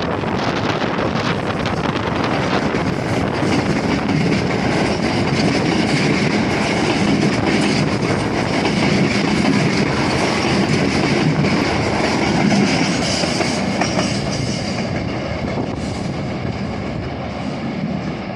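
KTR8000 diesel multiple unit, six cars, rolling into a station: wheels clacking over rail joints with a high wheel and brake squeal. The sound swells to a peak about two-thirds of the way in and then eases as the train slows.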